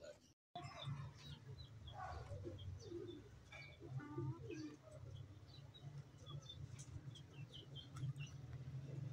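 Small birds chirping, many short high chirps scattered throughout, over a faint, steady low hum.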